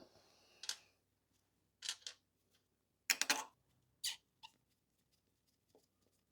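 Hand tools and small metal engine parts being handled during a motorcycle engine teardown: a sharp knock at the start, then a few short clinks and scrapes spaced about a second apart.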